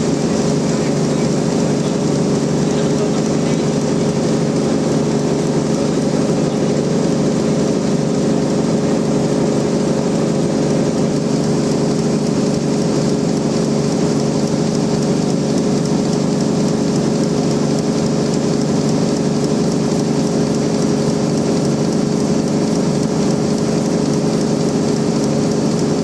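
Band sawmill running steadily: a constant machine hum under a dense, even hiss, with no change for the whole time.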